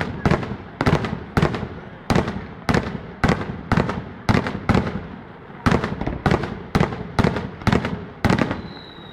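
Fireworks going off in a rapid, evenly spaced string of loud bangs, about two or three a second, each with a short echoing tail. A faint falling whistle comes in near the end.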